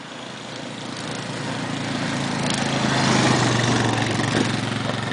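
Small engine of a recreational vehicle running with a steady tone, growing louder as it approaches over about three seconds, then easing off a little.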